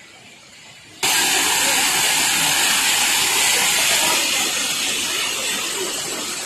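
Rushing water of a waterfall: a loud, steady hiss that cuts in suddenly about a second in and carries on unbroken.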